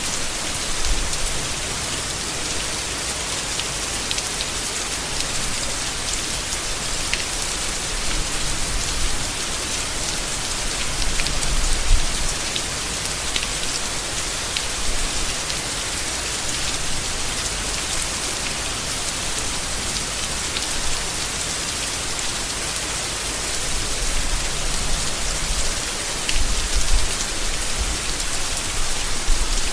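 Steady rain falling on leaves, an even hiss with individual drops ticking through it. A few brief low rumbles rise under the rain, the strongest about twelve seconds in and another cluster near the end.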